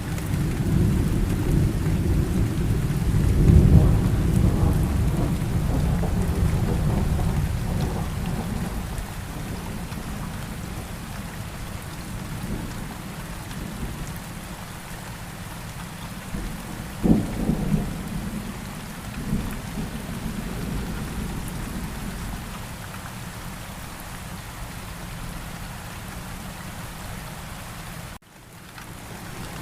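Steady rain with thunder. A long low roll of thunder peaks a few seconds in and dies away slowly, and a shorter, sharper clap comes about halfway through. The sound cuts out for a moment near the end.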